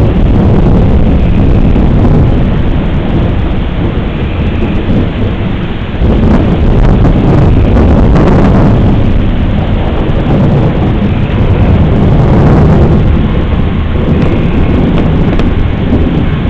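Thunder rumbling low and long over steady rain. A new, louder rumble breaks in suddenly about six seconds in, and another swell comes later.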